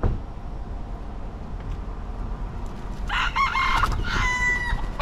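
Rooster crowing once, about three seconds in: a few quick broken notes and then a long held final note.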